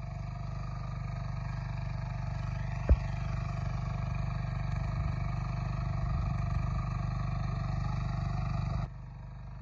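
Tractor engine running steadily with a low, pulsing drone, with one sharp knock about three seconds in; the sound drops abruptly in level near the end.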